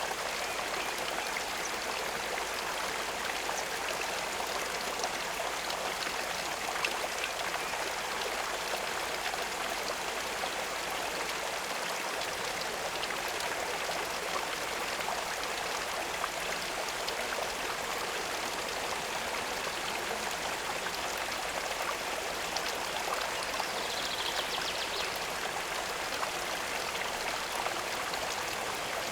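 Steady running water at a pond, an even rushing and trickling that does not change. A brief faint high note comes about two-thirds of the way through.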